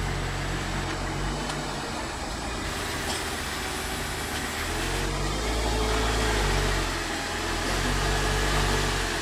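Lamborghini Gallardo Spyder's V10 running at low revs as the car moves slowly off, a steady low engine note with a couple of small swells in level.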